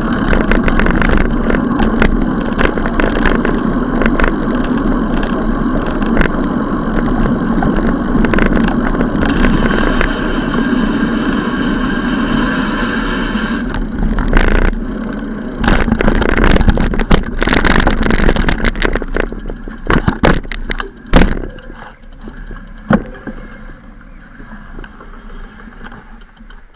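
Rushing wind and road noise from riding a bicycle, with many sharp knocks and rattles over the rough surface; it dies down over the last few seconds as the ride slows.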